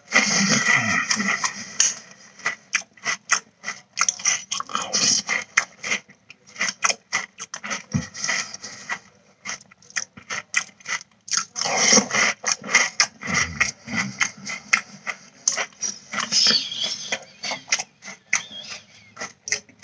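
A person chewing Cinnamon Toast Crunch cereal close to the microphone: crunching and mouth noises in bouts, with a couple of brief lulls.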